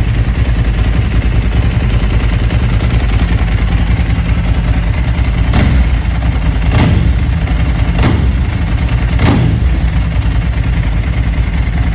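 Ducati 999's L-twin engine idling with a steady, loud beat. About halfway through it takes four quick throttle blips, roughly a second apart.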